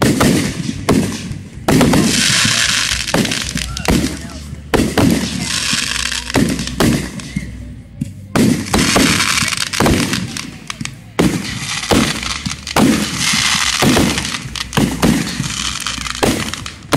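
Fireworks display: a rapid, irregular run of loud launch bangs and shell bursts, several a second. Four times a second-long hiss rises over the bangs.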